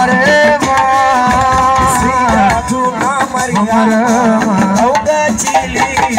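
Assiko band music played live: busy hand percussion with a rattling shaker under a wavering melodic line.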